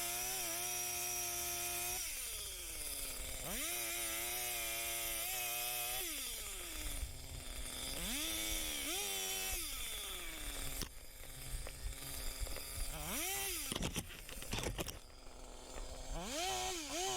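Two-stroke chainsaw revved up about five times, each time held at full speed for a second or two while cutting wood, then dropped back toward idle. A brief clatter comes about two-thirds of the way through.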